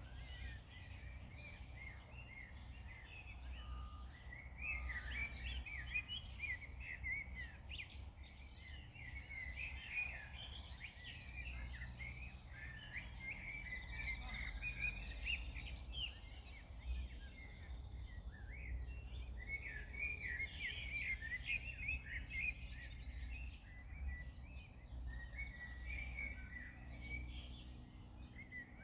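Several songbirds chirping and singing over a steady low outdoor rumble of wind and distant background noise.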